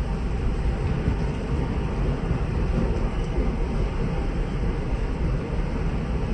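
Indian Railways train running along the track, a steady low rumble with no pause.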